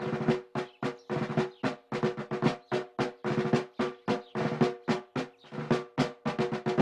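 Snare drum played in a fast, steady rhythm of strikes with rolls, ringing between the hits, as a drum music cue.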